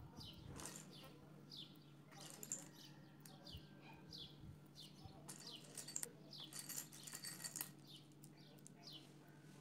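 Faint, repeated bird chirps: short falling notes about twice a second, over a steady low hum.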